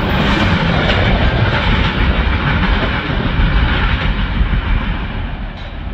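Freight cars of a passing manifest train rolling over the rails, a steady rumble that fades as the last car moves away.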